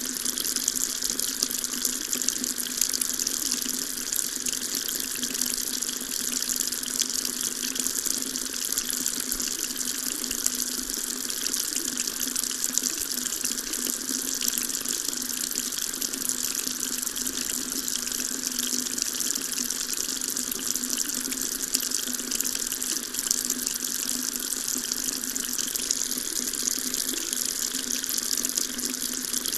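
Water tap running steadily, a continuous stream splashing into a sink, with a hiss that sits mostly in the high range and a faint low hum under it.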